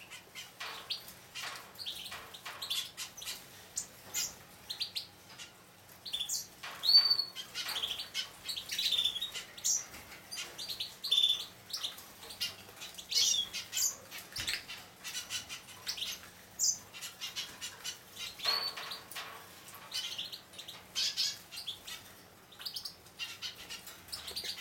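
Juvenile hooded siskin × Raza canary mule finches chirping repeatedly with short high calls while fluttering their wings as they bathe; the loudest call comes about seven seconds in.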